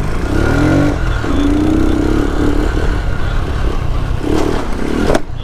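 Motorcycle engine revving under throttle. Its pitch climbs about half a second to a second in, then holds steady.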